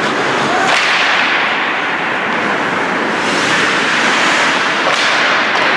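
Ice hockey play: a steady hiss of skates on the ice over rink noise, with sharp cracks of a stick striking the puck just under a second in and again about five seconds in.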